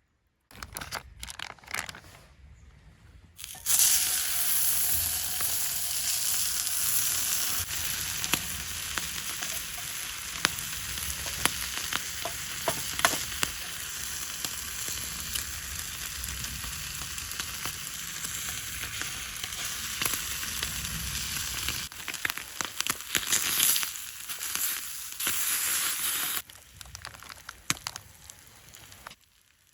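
Food sizzling in a hot frying pan over a small campfire. A few clicks come first, then the sizzle starts suddenly a few seconds in, as the food goes into the pan. Scattered pops and crackles run through it until it dies down near the end.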